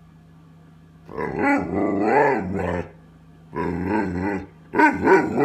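A dog 'talking': drawn-out, grumbling vocalizations that rise and fall in pitch, in three bouts, the first and longest starting about a second in, then a shorter one and a few quick ones near the end. It is the dog protesting that his dinner is late.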